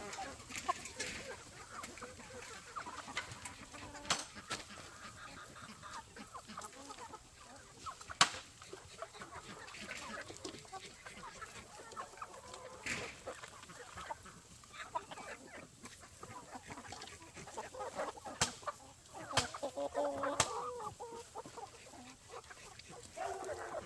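A flock of chickens clucking, with several sharp clicks or taps scattered through; the loudest click comes about eight seconds in.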